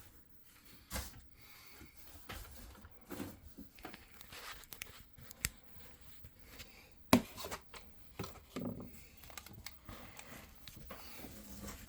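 Small handling noises, scattered clicks, taps and rubbing, with one sharp knock about seven seconds in.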